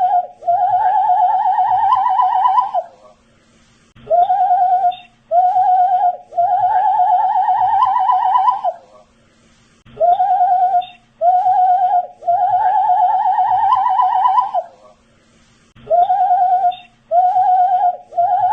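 A man whistling the same short phrase over and over: two short notes, then a longer wavering note that climbs slightly. The phrase repeats about every six seconds.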